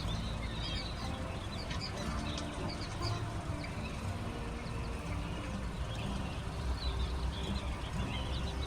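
Chicks peeping: many short, high cheeps scattered throughout, over a steady low rumble.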